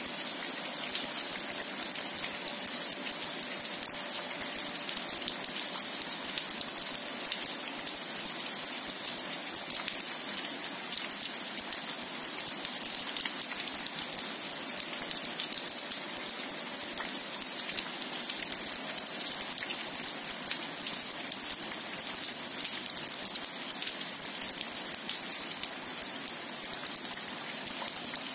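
Steady rain falling on a wet asphalt road and grass: an even hiss of many close drop hits that keeps going without letup.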